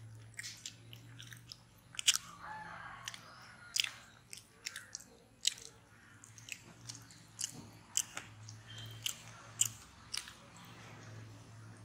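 Biting into and chewing chocolate-glazed donuts with sprinkles: irregular sharp mouth smacks and small crunches, one or two a second, over a steady low hum.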